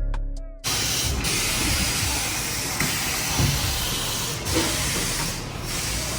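Background music cuts off under a second in, followed by a steady loud rushing hiss spread evenly across high and low pitches.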